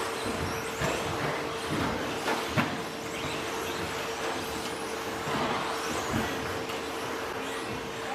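Radio-controlled 2WD electric stadium trucks in the 13.5-turn brushless motor class racing on a dirt track: motors whining and tyres scrabbling, with several sharp knocks of trucks landing or striking things, the loudest about two and a half seconds in.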